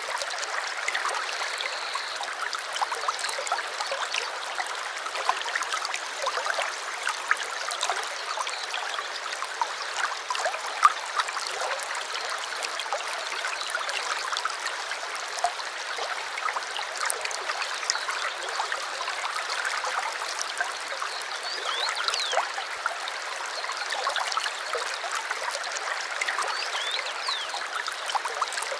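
Small stream flowing and trickling: a steady rush of water full of small splashes, with a few faint high bird chirps now and then.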